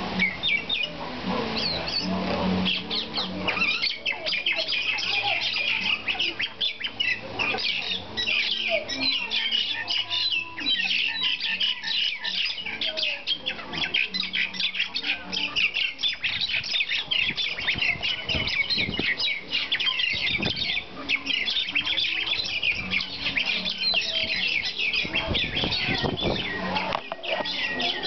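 Common mynas ("martins") squawking and chattering harshly and without pause, many short rapid calls overlapping: agitated birds fighting.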